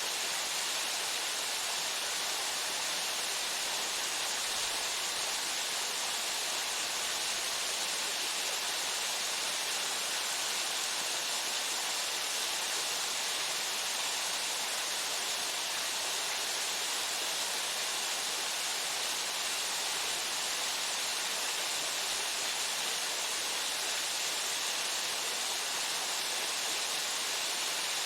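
Waterfall pouring steadily, a constant hiss of falling water with no change in level.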